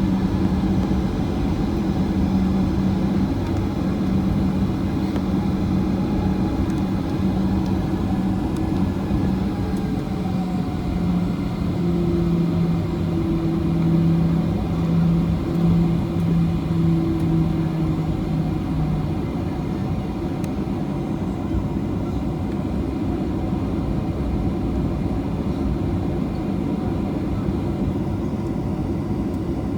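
Boeing 737-800 cabin noise: the CFM56 engines and airflow make a steady roar with a droning hum, and the hum drops slightly in pitch about a third of the way in, as the engine power is eased back.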